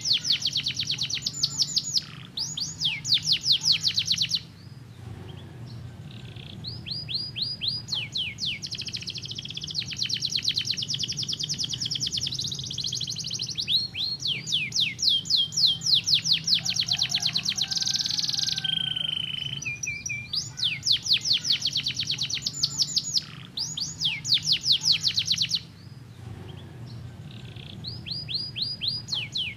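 Domestic canary singing in long rapid trills: quick runs of repeated sweeping notes, phrase after phrase with brief pauses between. A steady low hum runs underneath.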